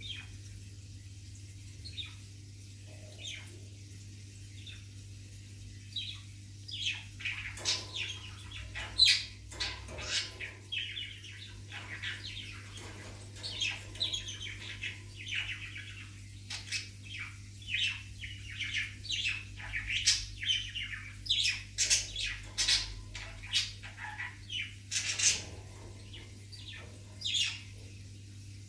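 Bird chirping, many short high calls in quick runs that begin about six seconds in and come thicker toward the end, over a steady low hum.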